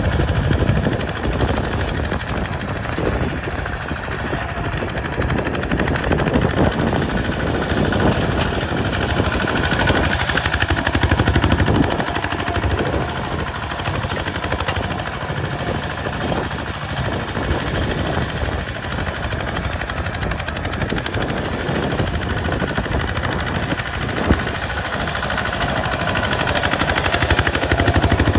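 Kubota RT single-cylinder diesel engine on a hand tractor running steadily while plowing, a loud, rapid chugging beat of firing strokes.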